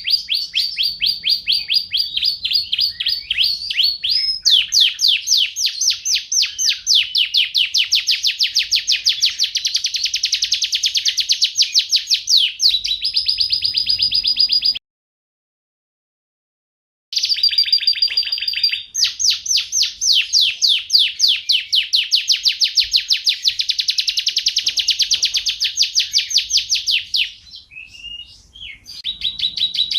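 Domestic canary singing long, fast trills of rapidly repeated high notes, changing from one trill type to the next. The sound cuts out completely for about two seconds midway, and the song goes softer and sparser for a moment near the end.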